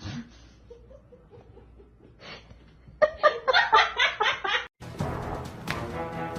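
A person laughing in quick pulses for about a second and a half, cut off abruptly, then music starts and carries on.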